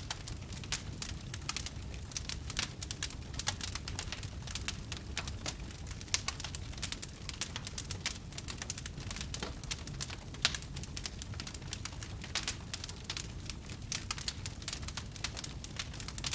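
Wood campfire burning, crackling with many small, irregular sharp pops over a low, steady rumble, and one louder pop about ten seconds in.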